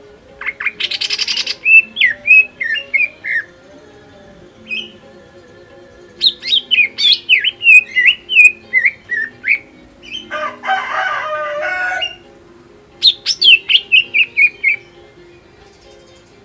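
Greater green leafbird (cucak ijo) singing: three bursts of quick, sharply rising and falling whistled notes, with a short harsh rasp about a second in and a longer rasping call about two-thirds of the way through.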